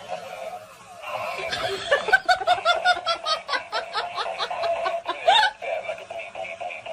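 A person laughing in a quick, rhythmic run of repeated laughs, starting about two seconds in and lasting a few seconds.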